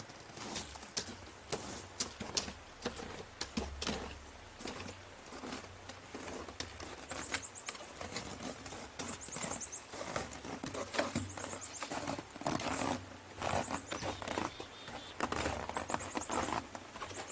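Footsteps crunching on snow: an irregular run of crunches, with a few short high chirps every couple of seconds.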